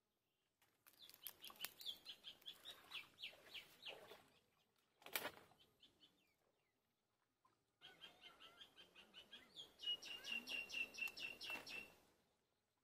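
A bird calling in two long runs of rapid, repeated high notes, about four or five a second, with a single sharp sound between the runs.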